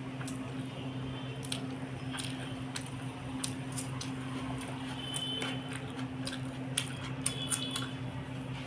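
Close-mic eating sounds: wet chewing and sharp mouth clicks from a mouthful of rice and egg curry, over a steady low hum.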